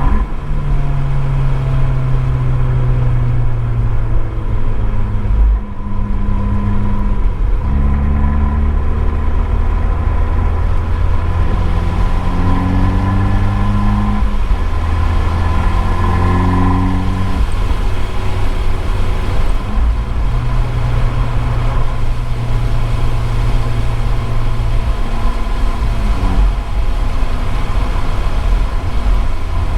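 Abarth 595 Esseesse's 1.4-litre turbocharged four-cylinder through its Akrapovič exhaust, driven hard on track. The engine note climbs and drops in steps as the car changes gear and speed, heard through a microphone in the boot.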